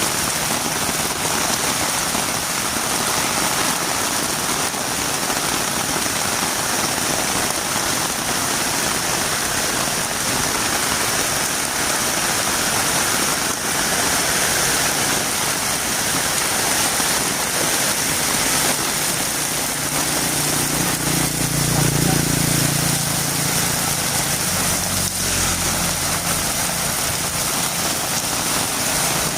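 Heavy rain falling steadily on a road. Past the middle, a vehicle's engine comes up, is loudest for a few seconds, and fades away again.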